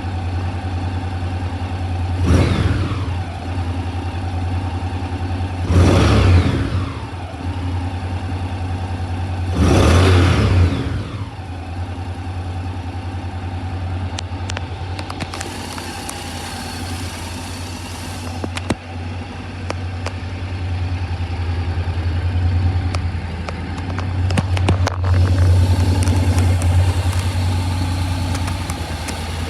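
Honda NC750X DCT's parallel-twin engine idling and blipped three times, about four seconds apart, the revs falling straight back to idle after each. It then idles steadily, with a few sharp clicks later on.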